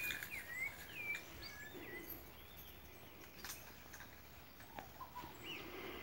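Small birds chirping faintly in short, quick sliding calls, several in the first two seconds and a few more near the end.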